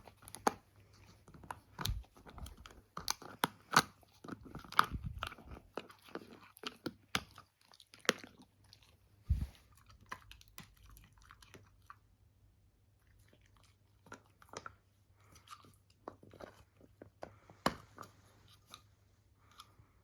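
A pet chewing and crunching food, with irregular sharp crunches, frequent through the first half and sparser later.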